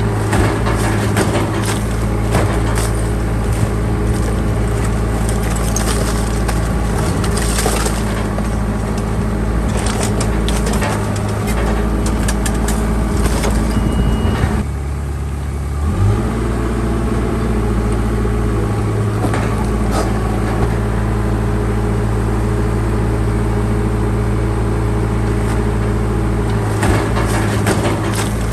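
Bulldozer's heavy diesel engine running steadily under load, with scattered cracks and crunches from material being pushed. The engine drops off briefly about halfway through, then picks back up.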